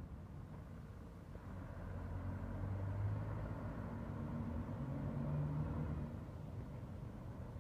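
Scania V8 truck engine running. It grows louder about two seconds in, its note rises a little around the middle, then it drops back and quietens near the end.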